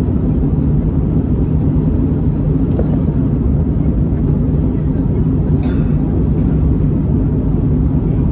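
Steady low drone of an Airbus A321neo in flight, heard inside the cabin: its Pratt & Whitney PW1100G geared turbofans and the air rushing past the fuselage. A short hiss comes in a little past halfway.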